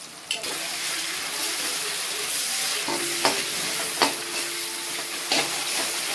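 Onions, capsicum and chilli sauce sizzling in hot oil in a metal kadhai, the sizzle jumping up sharply a moment in. A metal spoon scrapes and knocks against the pan as it is stirred, with a few sharp clicks around three and four seconds in and again past five seconds.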